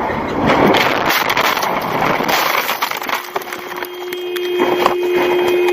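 Car crash: crunching and splintering impact noise with many sharp knocks. About three seconds in, a single steady pitched tone starts and holds.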